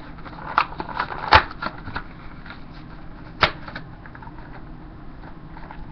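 A cardboard and plastic blister package being pulled open by hand: irregular crinkling with sharp clicks and snaps, the loudest a little over a second in and another about three and a half seconds in.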